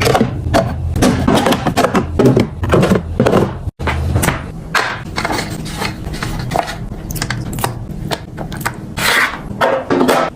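Containers and food items being handled and set down: a quick run of clicks, knocks and rubs, with an abrupt cut to silence a little under four seconds in.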